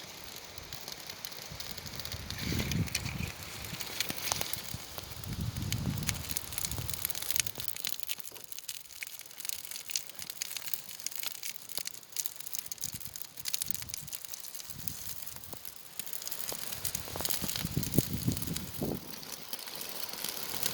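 Birch bark tinder in a fire pit crackling and crinkling as a lighter is held to it, with many scattered sharp clicks and a few low muffled swells.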